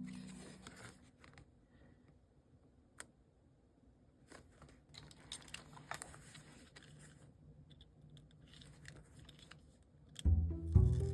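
Faint paper and sticker handling: scattered small taps, crinkles and tearing sounds. Background music fades out at the start and comes back in near the end.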